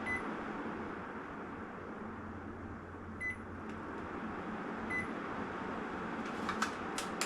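Split air-conditioner indoor unit running, its fan giving a steady airflow whoosh with no bearing noise now that the fan motor bearings have been replaced. The unit gives three short beeps, at the start, about three seconds in and about five seconds in, and a few sharp clicks come near the end.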